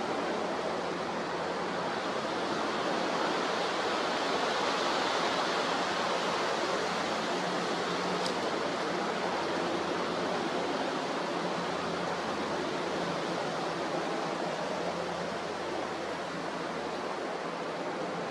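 Strong gale wind and rough sea on the coast, heard as a steady rushing noise with no distinct events.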